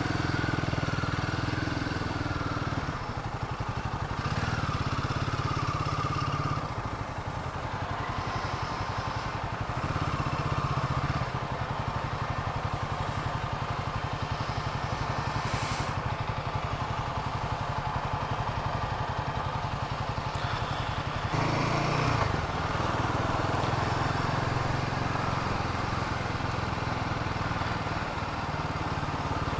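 Royal Enfield Himalayan 450's single-cylinder engine running while the motorcycle is ridden in slow traffic, its sound rising and falling every few seconds as the throttle opens and closes.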